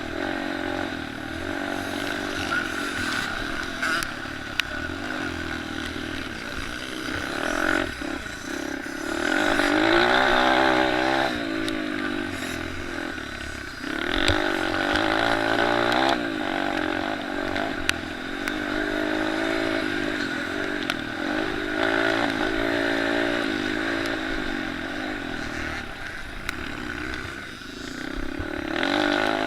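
Several small pit bikes and mini motocross bikes racing, their engines revving up and falling off again and again as they accelerate and back off around the track, with a few sharp knocks in between.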